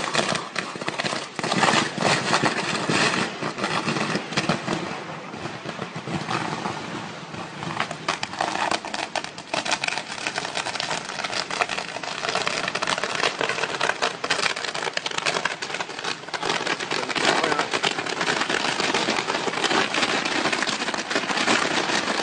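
Dense, unbroken crackling and popping of a firework ladder burning as its flame climbs into the sky.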